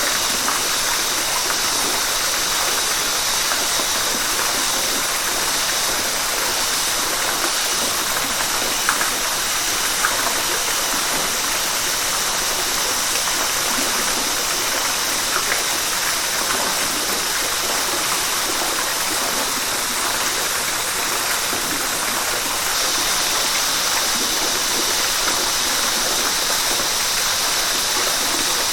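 A river's water rushing and splashing steadily over rocks.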